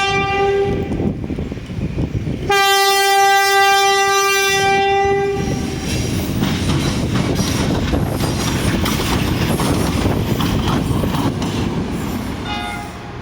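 Double diesel multiple-unit train sounding its horn as it enters a station: a short single-tone blast, a long blast of about three seconds, and a brief toot near the end. Between and after the blasts the train rumbles and its wheels clatter over the rail joints as it passes close by.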